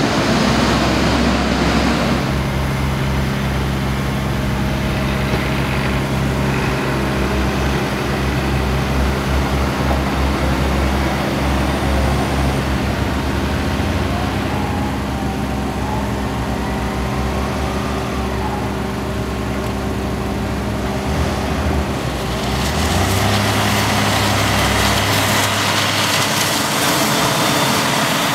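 Heavy farm machinery engines running steadily during maize chopping: a forage harvester and tractors at work. About 22 seconds in the engine note changes and a louder hiss comes in.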